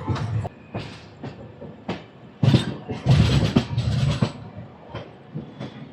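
Express train running, its wheels rumbling and clattering over the rails in irregular knocks. The clatter grows louder for nearly two seconds from about two and a half seconds in.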